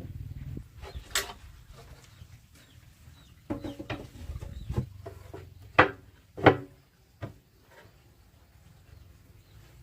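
Chickens clucking, with a few sharp knocks; the two loudest come close together about six seconds in.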